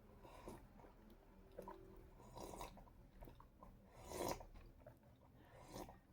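Faint sounds of a person biting and chewing food, a few soft crunches spaced irregularly, the loudest about four seconds in.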